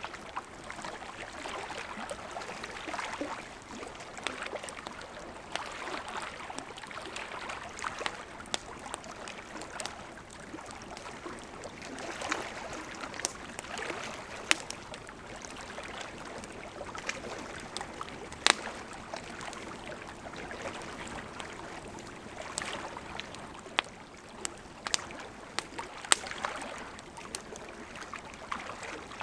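Burning wood crackling in a campfire: a steady hiss and flutter of flames, broken by frequent sharp pops and snaps, a few of them louder.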